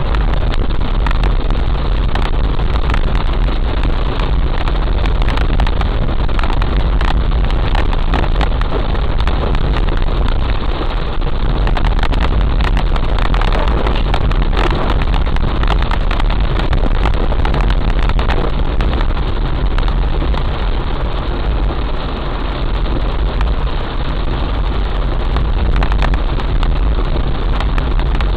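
Heavy rain pouring steadily: a dense, even hiss with a strong low rumble underneath.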